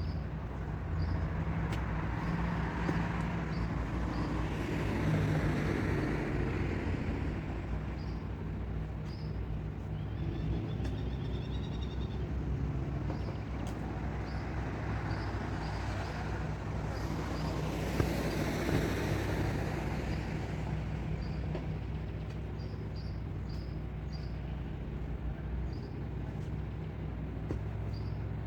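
A vehicle engine idling steadily, with broad vehicle noise swelling and fading twice, like passing traffic.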